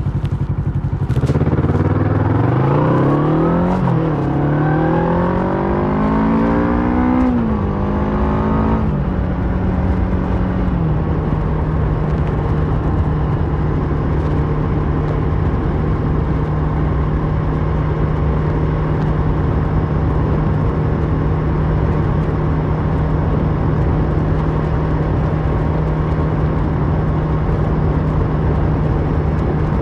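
2008 Kawasaki Versys 650's parallel-twin engine through a MIVV slip-on exhaust, accelerating hard through the gears with two quick upshifts where the pitch rises and then drops. After about ten seconds it settles into a steady cruise at constant revs.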